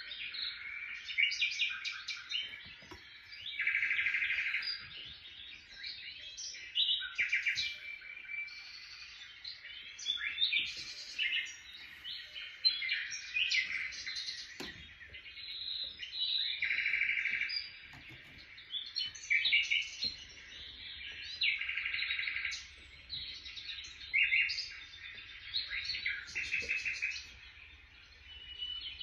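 Songbirds chirping and singing busily, several overlapping, with short whistled notes and rapid trills of about a second that keep coming back.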